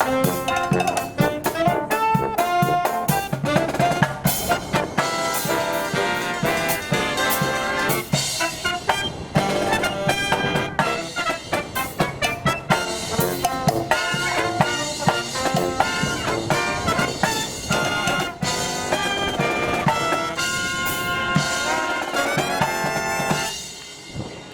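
Brass marching band playing a medley of Disney tunes, with trumpets, trombones and drums, while strong wind buffets the microphone. The music falls away about a second before the end.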